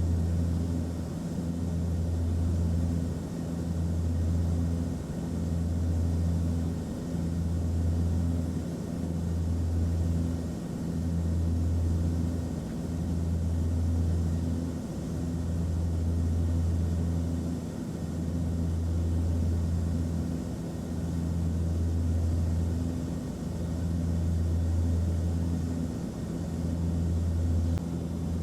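Airplane cabin noise: a steady low engine drone over an even hiss of rushing air. The drone swells and fades in a slow beat every second or two.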